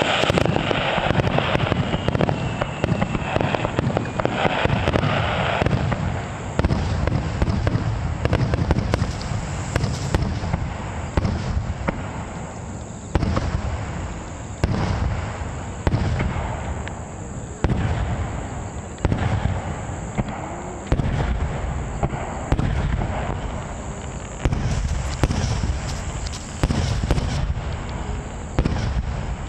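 A star mine (Japanese rapid-fire aerial fireworks barrage) with shells bursting in deep booms about every second or two, each trailing off. Crackling and fizzing stars fill the first few seconds.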